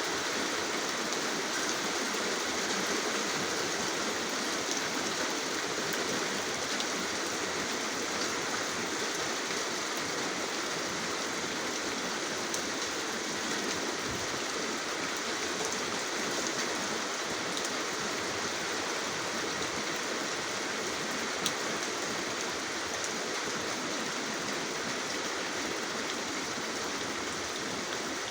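Steady rain falling, an even hiss of water with a few faint drop ticks.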